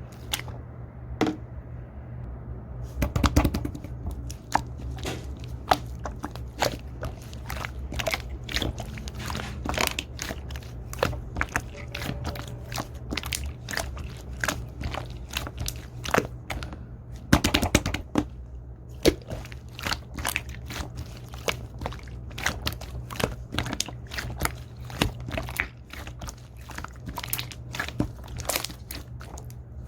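Purple slime being squished, pressed and stretched by hand, giving many irregular sticky clicks and pops, thickest about three seconds in and again past the middle. A steady low hum runs underneath.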